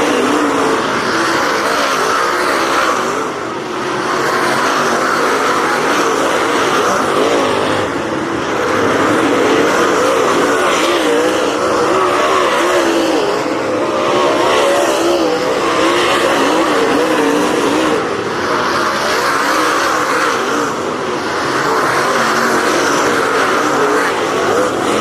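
Race car engines running hard on the track, their pitch wavering up and down as the cars go through the turns and down the straights.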